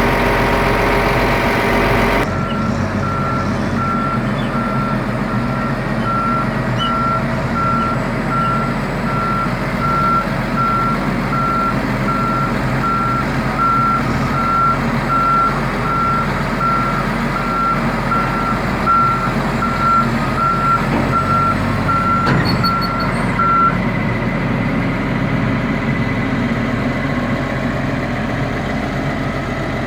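Reversing alarm of a diesel forestry machine beeping a little over once a second over its running engine. The beeping stops near the end, while the engine keeps running.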